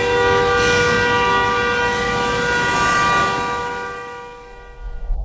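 A sustained chord of several steady horn-like tones, held and then fading out about four seconds in.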